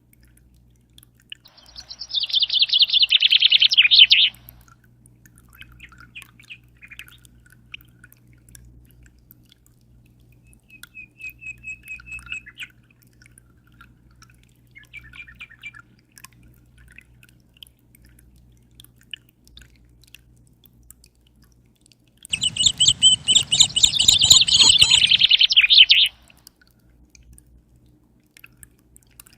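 A songbird sings two loud phrases of fast trills, one about two seconds in and one near the end, with a few soft chirps between them. Under it run faint dripping water and a low steady hum.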